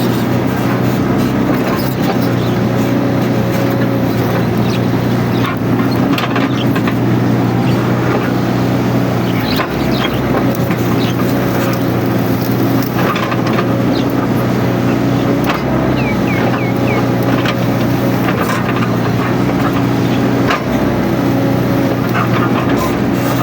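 Mini excavator's diesel engine running steadily at working speed, with scattered short knocks and cracks as it works.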